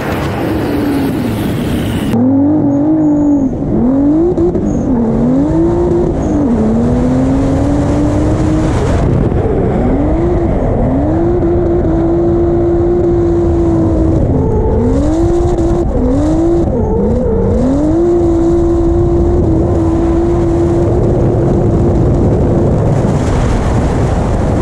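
Twin-turbo Genesis Coupe 3.8 V6 in a G35 drift car, driven hard through a drift: the engine revs up and drops again in quick swoops, between stretches of several seconds held steady at high revs.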